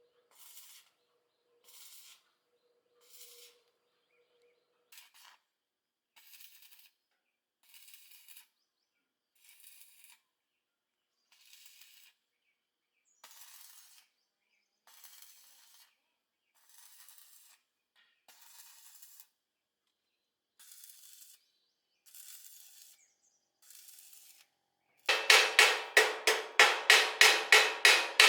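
Faint hand-tool strokes on metal, evenly spaced at about one a second, scraping like a file or brush. Near the end comes a loud, quick run of hammer blows on metal, about four or five a second, each one ringing.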